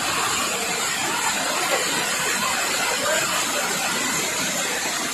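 Steady rushing hiss with no distinct events.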